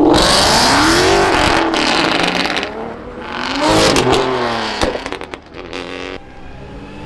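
Car engine revved hard twice, its pitch climbing and falling each time over a rush of exhaust noise. A quick string of sharp pops follows about five seconds in.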